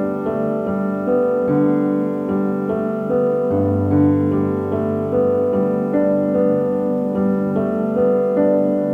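Slow, gentle piano music, with soft notes struck about twice a second over held bass notes.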